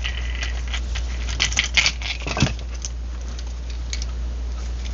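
Small metal parts clicking and clinking in irregular taps as a metal clamp assembly is taken apart by hand, with one heavier knock about two and a half seconds in. A steady low hum runs underneath.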